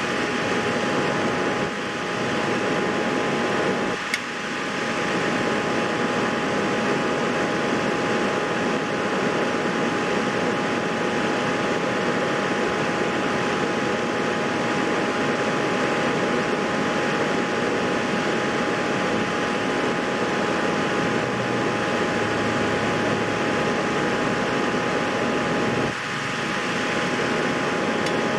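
Steady mechanical whir of a fan-like machine with a constant hum tone. The level dips briefly twice, and there is a single click about four seconds in.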